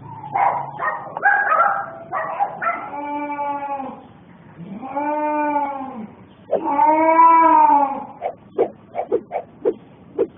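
House cats fighting: a few rough bursts, then three long yowls that rise and fall in pitch, then a quick run of short sharp sounds near the end.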